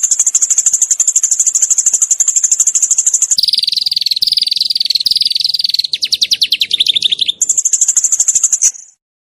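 Small songbird singing a rapid-fire 'tembakan' (shooting) song: a very fast, high-pitched trill for about three seconds, then a lower, wavering trill and a quick run of sharp notes, then the high trill again before it cuts off near the end.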